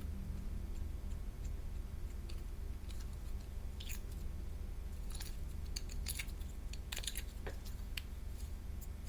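Slime being worked by hand, giving scattered small sticky clicks and crackles that grow denser from about three seconds in, over a steady low hum.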